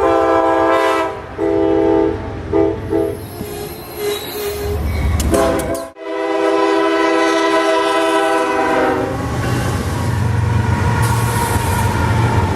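Horn of a Canadian Pacific GE freight locomotive sounding a series of blasts, one long, several short, then another long blast about six seconds in. After the horn stops, the low rumble of the diesel locomotives passing takes over.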